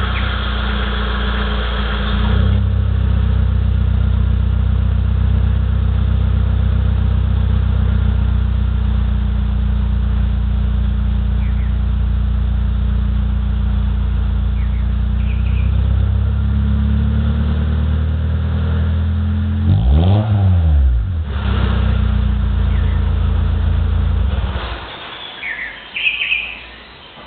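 Mitsubishi 4G15 1.5-litre four-cylinder in a stock Lancer running through its exhaust at a steady idle, a little higher for the first couple of seconds, with one quick throttle blip about 20 seconds in. The engine note cuts off near the end.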